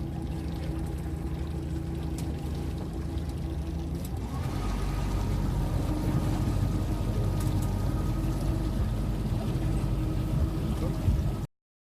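Tour boat's engine running steadily, then picking up speed about four seconds in, louder with a higher tone added; the sound cuts off abruptly near the end.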